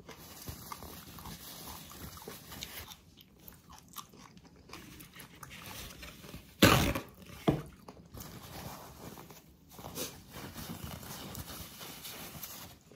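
Close-miked chewing and mouth sounds of a person eating spicy ox feet stew. About seven seconds in comes a loud, short rush of noise, then a smaller one just after.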